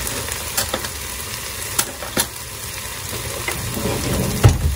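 Chopped onions and minced garlic sizzling in a frying pan, with a few sharp clicks in the first half and a dull thump near the end.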